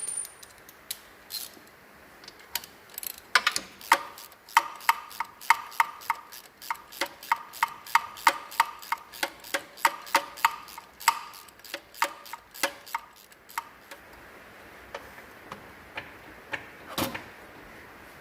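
Hand socket ratchet clicking in an even run of sharp metallic clicks, about three a second, as a bolt is wound in, stopping about three-quarters of the way through; a single louder click follows near the end.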